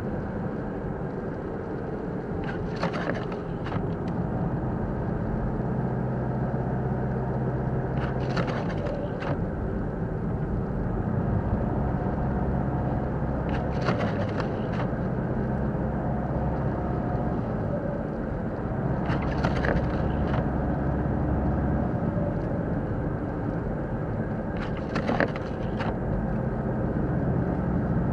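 Steady engine and road rumble inside a moving car. About every five and a half seconds there is a short cluster of clicks and scrapes, five times in all, which fits the windscreen wipers on intermittent sweeping snow off the glass.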